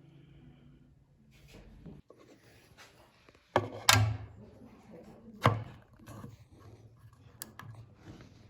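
Sharp knocks on wood: two quick strikes about three and a half seconds in and another a second and a half later, then a couple of lighter taps near the end. A low hum runs for the first two seconds.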